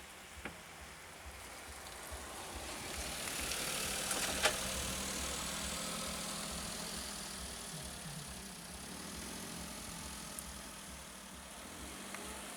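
A motor vehicle's engine running with a steady low rumble, growing louder about four seconds in and then easing off, with a single sharp click near the loudest point.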